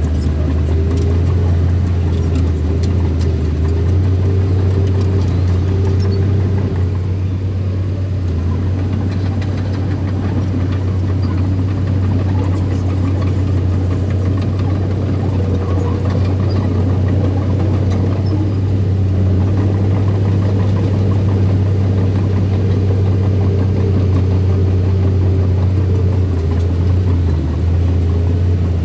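Earth-moving machine's engine running steadily at an even speed, with a strong low hum throughout.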